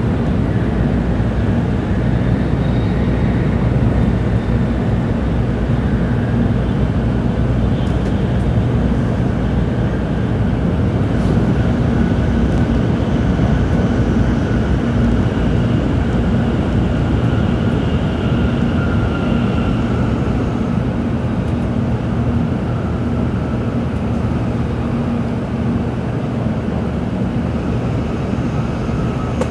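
Tōkaidō Shinkansen train running, heard from inside the passenger car: a steady low rumble with a faint whine that slowly drifts in pitch.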